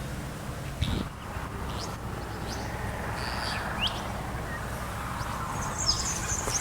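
Birds chirping outdoors, short single chirps, then a high rapid trill near the end, over a steady low rumble, with one short knock about a second in.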